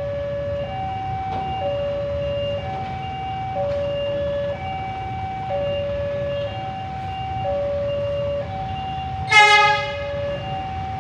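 Railway level-crossing warning signal sounding a steady two-tone alternating chime, each tone about a second long, over a low rumble. About nine seconds in, a train horn gives one short, loud blast.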